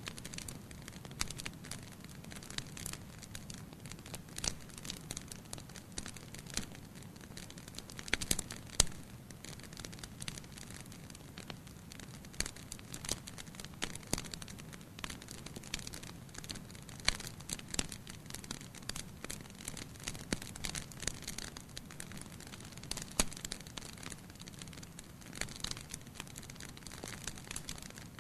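Wood fire burning in a fireplace, with a low steady rumble of flames and frequent irregular crackles and pops; the loudest snaps come about eight to nine seconds in.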